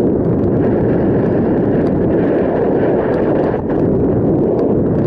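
Wind buffeting the microphone of a camera carried on a moving bicycle: a loud, steady rumble.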